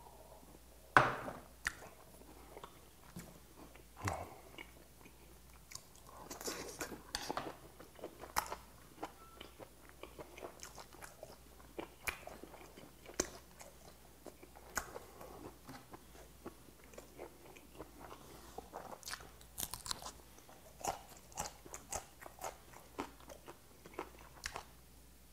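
Close-miked chewing of boiled whelk meat: wet smacking and small crunchy clicks of the mouth working the chewy flesh, with one sharp loud knock about a second in.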